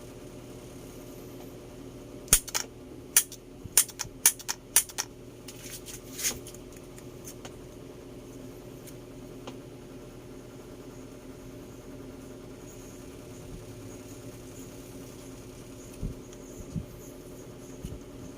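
A run of about ten sharp clicks over some four seconds as a salon appliance is handled and switched, then a few soft thumps near the end, over a steady low hum.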